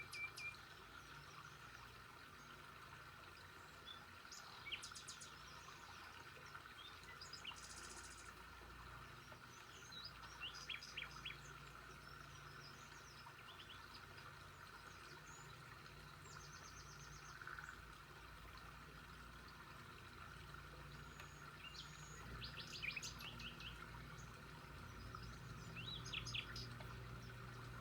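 Songbirds chirping and trilling in short scattered phrases over a faint steady background hum.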